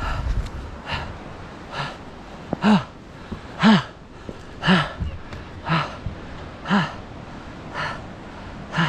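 A man breathing hard, a heavy exhale about once a second, several of them voiced into short grunts: the strain of climbing under a heavy backpack.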